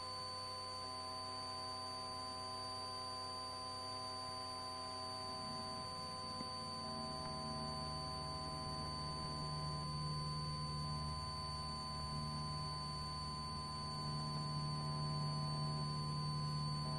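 Faint, steady hum of a Cessna Skyhawk cabin heard through the intercom feed: a constant electrical whine of several fixed tones over a low engine drone, which gets a little louder about five to seven seconds in.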